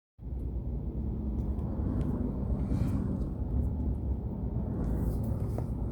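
Steady low rumble of a vehicle engine running, with a faint steady hum over it.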